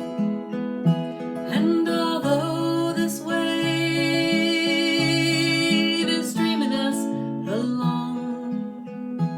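Acoustic guitar strumming a repeating chord pattern. Through the middle a held, wordless melodic line sounds over it, sliding up into its notes.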